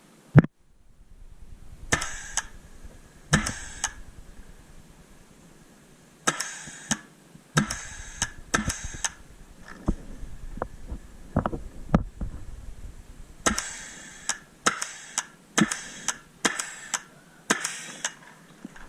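Paintball markers firing: sharp pops in quick strings of two or three shots, with a busier run of shots near the end.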